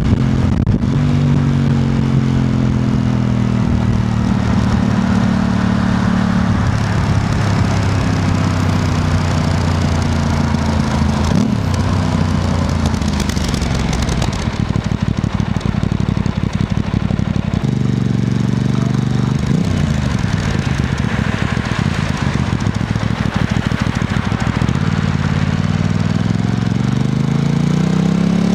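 Aprilia RS660 Extrema's parallel-twin engine running under way at steady speed. It eases off for a few seconds about halfway through, then picks up and revs rising as the bike accelerates near the end, with wind and road noise throughout.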